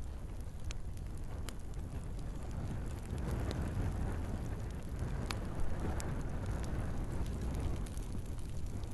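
Wood fire burning in a fireplace: a steady low rumble of flames with scattered sharp crackles and pops from the logs, two of them louder a little past the middle.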